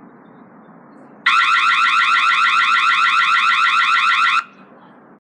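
Electronic siren of a Ring Floodlight Cam Wired Pro, sounding as a loud, fast rising warble that starts a little over a second in and cuts off suddenly after about three seconds.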